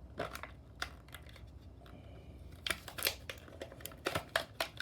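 Plastic blister packaging of a diecast toy car being handled, making scattered clicks and crinkles. They come more thickly in the second half.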